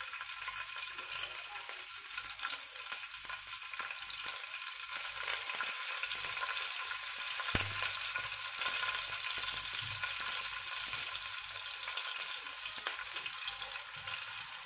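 Slit green chillies and a bay leaf sizzling in hot oil in a pan. The steady crackling hiss grows a little louder about five seconds in, with one sharp tick about halfway through.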